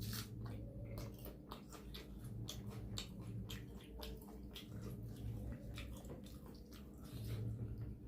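Close-up eating sounds: wet chewing and mouth clicks from a mouthful of mutton curry with rumali roti and rice, many small clicks and squishes in quick, irregular succession, over a low steady hum.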